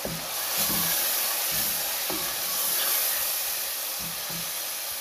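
Tomato purée and spices sizzling in hot oil with fried onions in a pot while a wooden spoon stirs them: a steady frying hiss with several soft knocks of the spoon against the pot.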